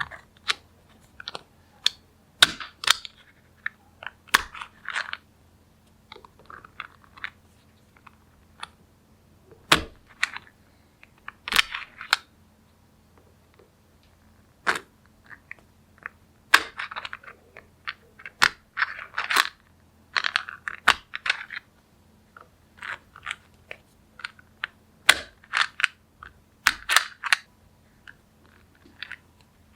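Small magnetic balls clicking and snapping together, with irregular single sharp clicks and short clattering runs as the balls are pulled apart and set into place.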